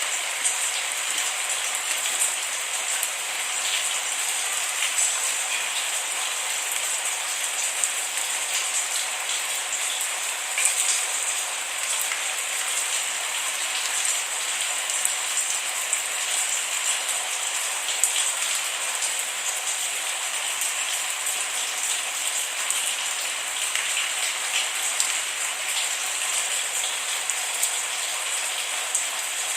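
Steady rain falling, a continuous hiss with many small drops pattering on a surface, without thunder.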